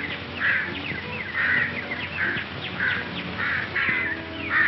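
A bird calling in a quick, even run of short harsh caws, about two a second, on an old film soundtrack with little treble.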